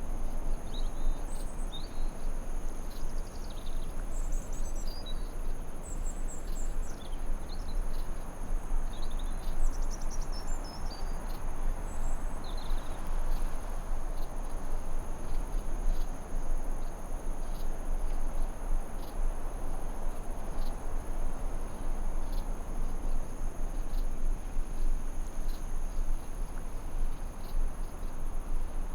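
Forest ambience: a steady high-pitched insect trill over a soft, even rushing hiss, with birds chirping and twittering in the first half.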